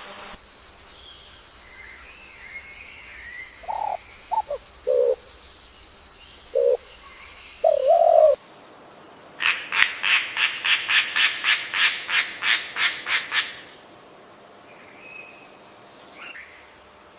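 Bird calls: a few short, low call notes, then a rapid run of harsh rasping notes at about four a second lasting some four seconds, followed by faint chirps.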